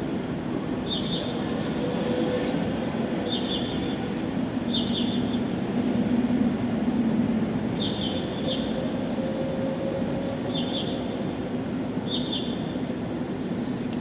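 A songbird repeating a short, high call with a quick falling sweep, about every one to two seconds, over a steady low rumble.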